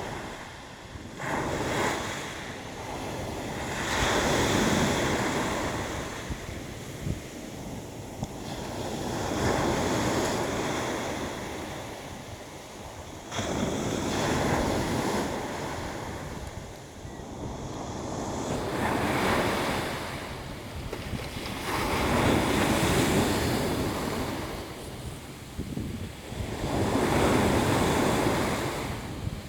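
Sea waves surging in and washing back, the rush swelling and fading every four to six seconds, with wind rumbling on the microphone.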